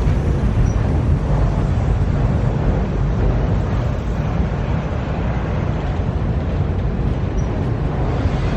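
Freight train rolling past, a steady, even rumble of the cars with no horn or distinct clicks.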